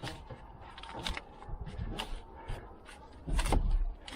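Scattered clicks and knocks of work in an auto repair shop, with one louder, low, rumbling knock lasting under a second about three and a half seconds in.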